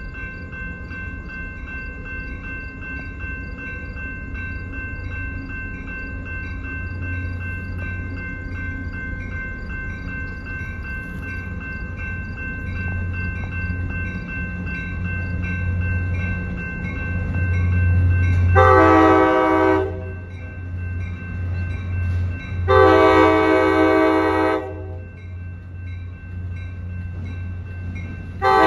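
A diesel locomotive approaching a grade crossing, its engine rumble growing, while the crossing bell rings steadily. The locomotive horn sounds a long blast, a longer second one, and a short third blast near the end: the opening of the standard long-long-short-long crossing signal.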